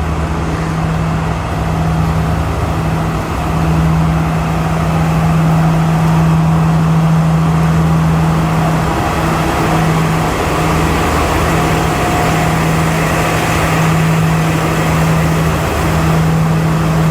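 A train's diesel engine, one of its MTU 12V 4000 units, running with a steady low hum that holds one pitch throughout, growing slightly louder a few seconds in.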